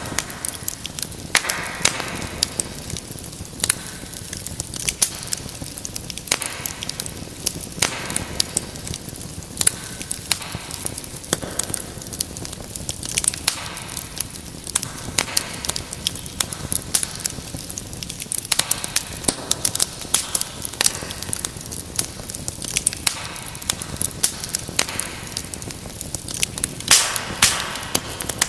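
Wood fire crackling in a fireplace: frequent irregular sharp pops and snaps over a steady low rush of flames.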